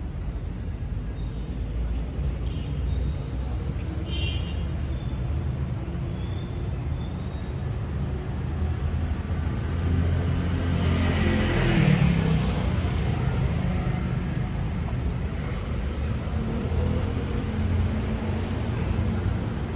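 City street traffic: a steady low rumble of engines and tyres, with one vehicle passing close that swells louder and fades about halfway through.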